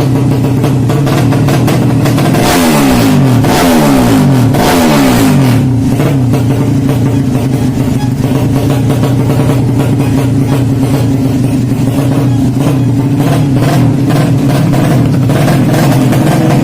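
Yamaha Jupiter drag-bike engine bored to 200cc, a single-cylinder four-stroke, idling steadily, then blipped about three times in quick succession a few seconds in, with each rev falling away before it settles back to idle.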